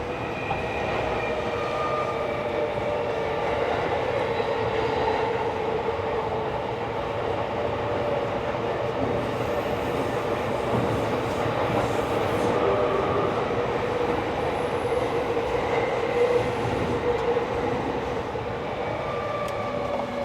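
Tokyo Metro 16000 series subway train running through the tunnel, heard from inside the car: a steady rumble of wheels on rail with faint whining tones from the running gear.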